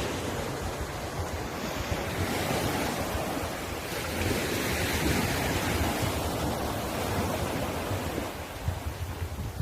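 Sea waves washing onto the shore in a continuous rush of surf, swelling a little midway and easing near the end.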